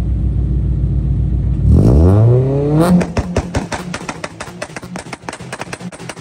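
Car engine running at a steady low idle, revving up about two seconds in, then breaking into a fast run of sharp crackles.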